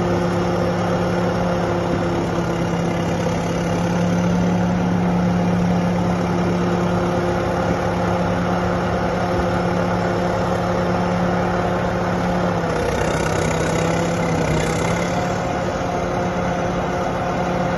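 Caterpillar D7E crawler dozer's diesel engine idling steadily; about two-thirds of the way through its note dips slightly for a couple of seconds, then picks up again.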